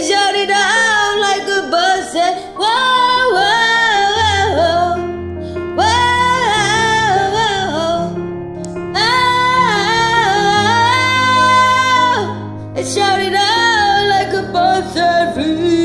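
A singer holding long, wavering notes over a karaoke backing track, with a bass line coming in about four seconds in.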